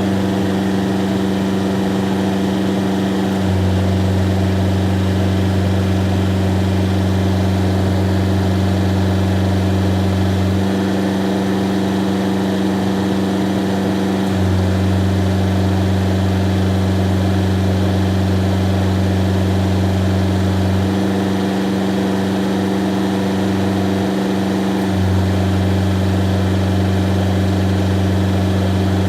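Kubota GL367 tractor's diesel engine idling steadily with the air conditioning running, played back at double speed. A low hum drops out and comes back a few times.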